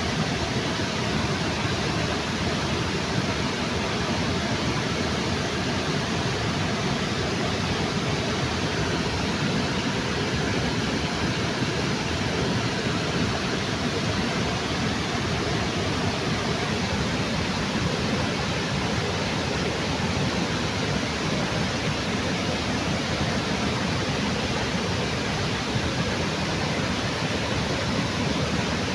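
Water pouring over a small waterfall in a river, a steady rushing.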